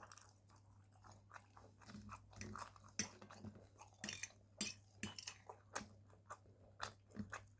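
Close-up chewing of a mouthful of grilled chicken breast, salad and air-fried potato chips, with soft irregular crunches and wet mouth clicks several times a second.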